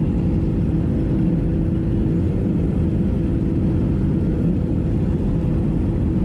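Motorcycle running at a steady speed while riding, its engine under a heavy, unchanging low rumble of wind noise on the microphone.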